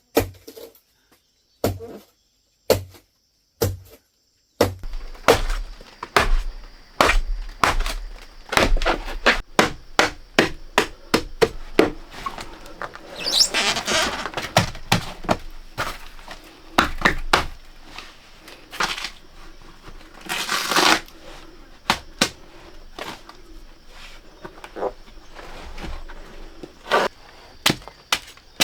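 A long run of sharp, irregular knocks from a hand tool striking: about one a second at first, then several a second from about five seconds in. Two brief hissing noises come a little before halfway and about two-thirds through.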